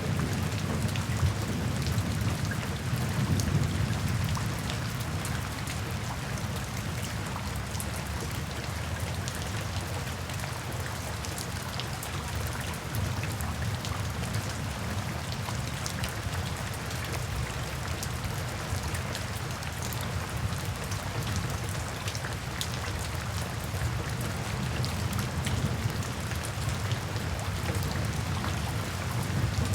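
Steady rain falling, an even hiss with fine drop ticks, while a low thunder rumble dies away over the first few seconds.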